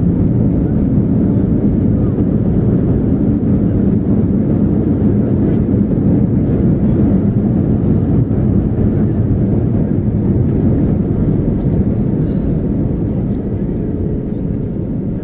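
Airbus A320 cabin noise: a loud, steady rumble of the jet engines and airflow heard from a window seat, easing slightly near the end.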